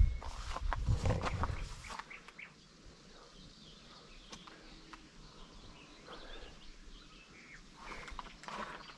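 Small birds chirping faintly in the background. Low rumbling and a few knocks in the first two seconds.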